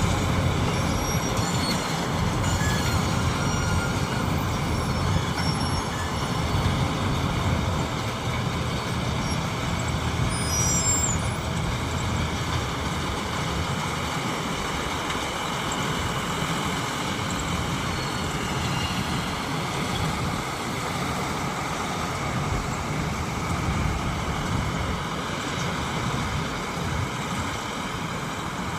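Combine harvester's engine running steadily under load, a continuous mechanical drone.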